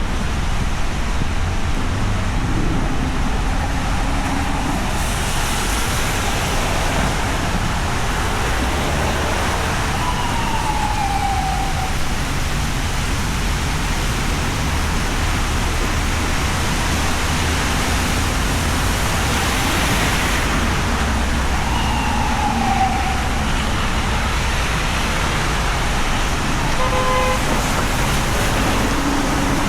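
Steady rain and wet street traffic, with tyres hissing on the pavement. A siren's falling wail comes through twice: about ten seconds in, and again about twelve seconds later.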